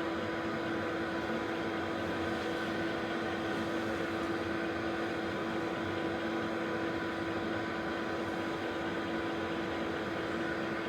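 Steady machine hum with a constant low tone and fainter higher tones, unchanging throughout, like a fan or motor running.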